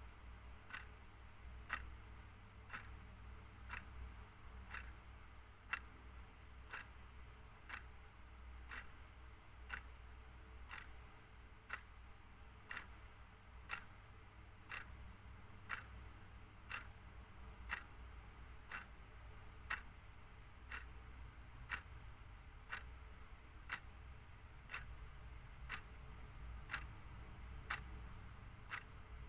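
Clock ticking, a steady, even run of light ticks at a regular pace, over a faint low hum.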